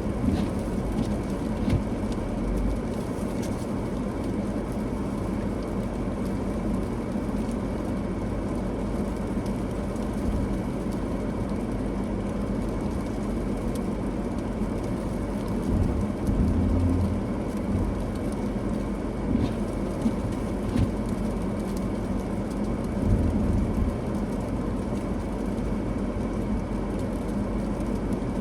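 Car driving on a snowy road: a steady rumble of engine and tyres, with a few brief louder bumps.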